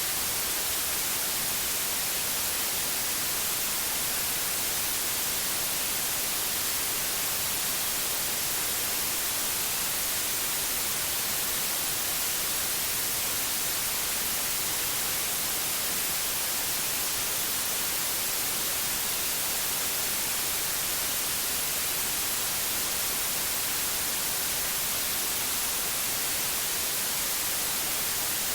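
Electronically generated white noise: a steady, even hiss, brightest in the high end, with no change.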